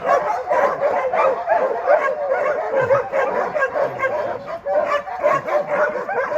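A team of harnessed sled dogs barking, yipping and whining all together in a continuous, loud chorus: the excited clamour of dogs eager to run.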